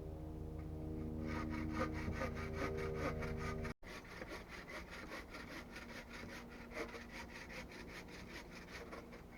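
Hand saw cutting through wood in quick, even strokes. The sawing breaks off for an instant about four seconds in, then carries on.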